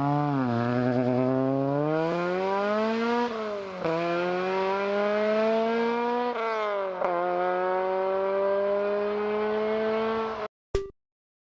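A performance car's engine accelerating hard through the gears. The pitch climbs and drops back at each shift, about 3, 4 and 7 seconds in, then holds steady before cutting off suddenly near the end, followed by two short electronic beeps.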